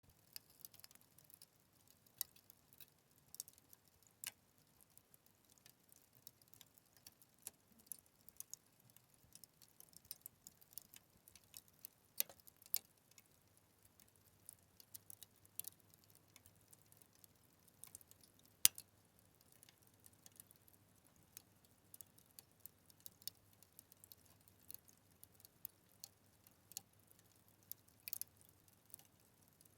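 Fire crackling: faint, irregular sharp pops and snaps at an uneven rate, with one louder pop a little past halfway.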